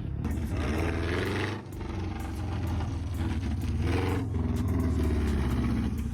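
A car engine revving hard, its pitch repeatedly climbing and falling, with two louder surges, one about a second in and one about four seconds in.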